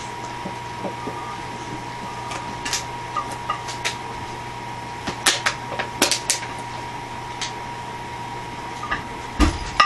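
Empty plastic water bottles crackling and clacking as Havanese puppies play with them: scattered sharp clicks, busiest about five to six and a half seconds in and again near the end, over a steady faint hum.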